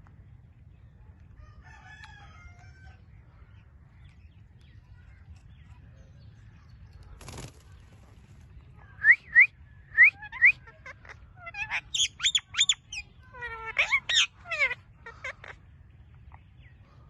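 Indian green parrot calling: after several quiet seconds, four short sharp rising calls, then a run of loud, harsh squawks that stops a couple of seconds before the end.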